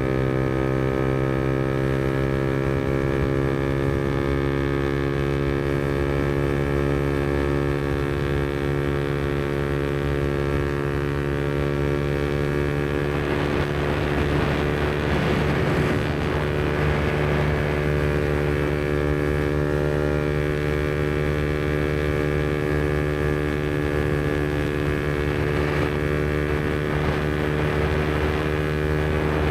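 Yamaha MT-125's single-cylinder four-stroke engine, breathing through an aftermarket Black Widow exhaust, running at a steady cruising speed with its pitch holding nearly level. A stretch of rushing noise rises over it about halfway through.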